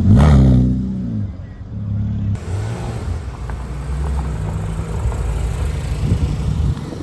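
A Porsche sports car passes close by under power, its engine note dropping and fading quickly as it goes away. About two and a half seconds in, a different Porsche engine takes over, running at fairly steady revs.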